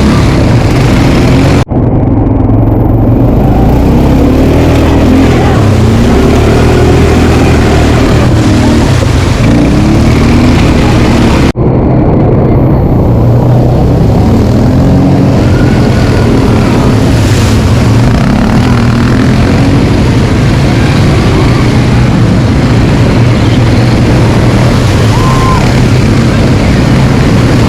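Quad bike engine running under way, its pitch rising and falling with the throttle over a heavy low rumble. The sound drops out very briefly twice, about two seconds in and about twelve seconds in.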